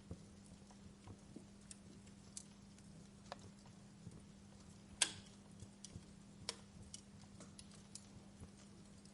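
Wood fire crackling in a fireplace: irregular sharp pops and snaps from burning logs, the loudest about five seconds in, over a faint steady hiss and low hum.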